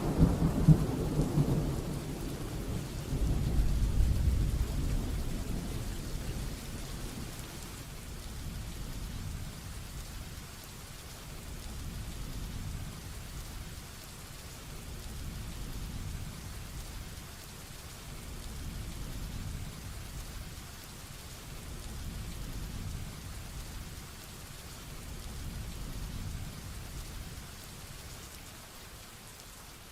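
Heavy rain falling steadily with thunder. A loud rumble of thunder dies away over the first five seconds or so, then fainter low rumbles come and go under the rain.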